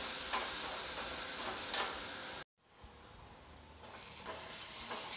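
Ground masala paste sizzling in hot oil in a kadhai while a spatula stirs and scrapes it, the paste being roasted (bhuna). The sound cuts off suddenly about two and a half seconds in, then comes back fainter and slowly grows.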